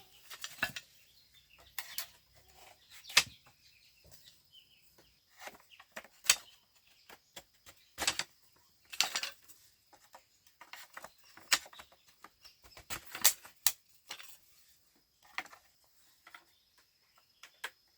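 Irregular sharp knocks and clicks, a second or two apart and uneven in strength, over a faint steady high-pitched tone.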